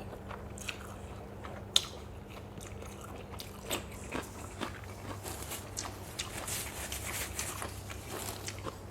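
Close-up chewing of a mouthful of crisp lotus stems and shrimp from a spicy som tum, with many short crisp crunches that come thicker in the second half, over a steady low hum.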